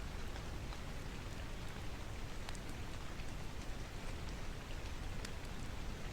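Steady rain with a few scattered sharp crackles of a wood fire.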